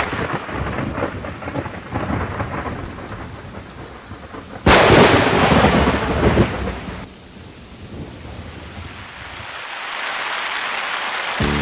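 Thunderstorm: a rumble of thunder at the start that fades, then a louder crack and roll of thunder about five seconds in, over steady rain that grows toward the end.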